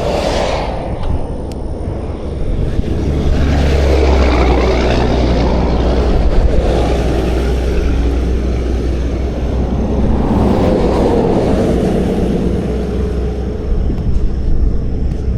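Interstate traffic passing close by, swelling and fading as vehicles go past about three times, over a steady low engine rumble.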